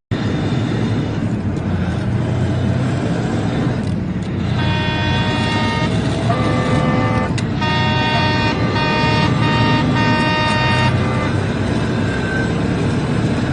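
Car horn honking over steady road and engine noise: one long blast about a third of the way in, then several short blasts in quick succession, stopping a few seconds before the end.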